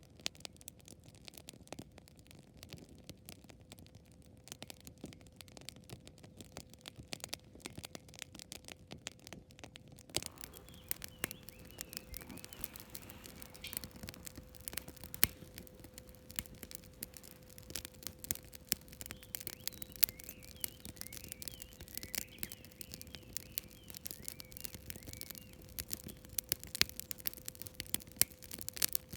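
Wood campfire crackling, with irregular sharp pops. The crackle gets busier and brighter about ten seconds in.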